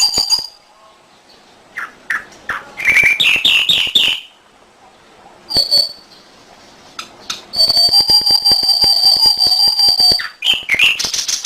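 Domestic canary singing: bursts of rapid, repeated high trills separated by short pauses, then one long held whistled note, and another fast trill near the end.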